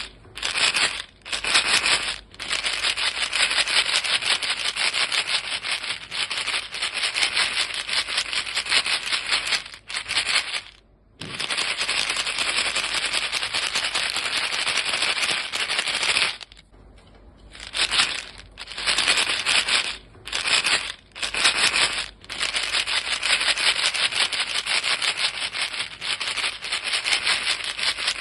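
A box of chewing gum pellets shaken continuously, a dense, fast rattle broken by a few short pauses, the longest about 11 and 17 seconds in.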